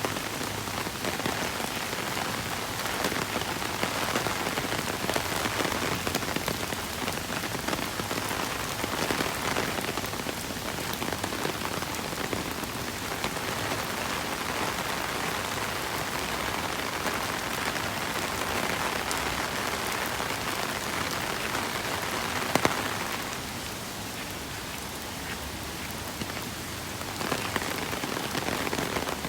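Steady rain pattering on surfaces, a dense even hiss. One sharp tap sounds about two-thirds of the way through, and the rain is briefly a little softer for a few seconds after it.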